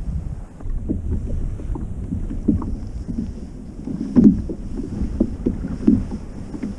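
Waves slapping and sloshing against a kayak's hull in irregular knocks and splashes, the loudest a little past halfway, over a low rumble of wind on the microphone.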